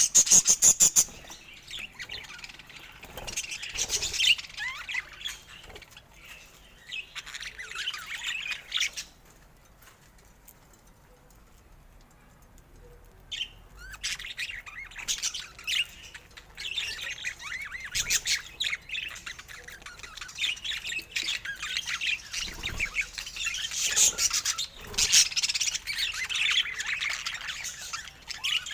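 Budgerigars chattering, chirping and warbling in quick, busy phrases, opening with a loud fast rattle. There is a lull of a few seconds near the middle, then the chatter picks up again.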